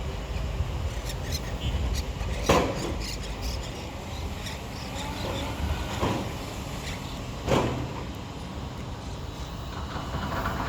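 Parrots squawking: harsh, loud calls about two and a half and seven and a half seconds in, with a softer one around six seconds, over a steady low rumble.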